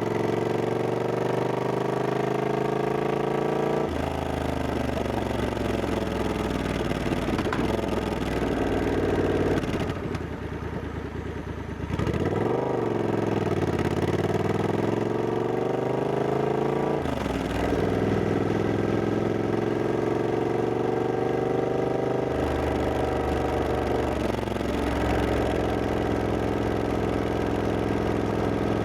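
Triumph Scrambler 1200X's parallel-twin engine under way, its pitch rising as it pulls and dropping at each upshift. About ten seconds in the engine quietens for a couple of seconds off the throttle, then its pitch swings up and down before it pulls again.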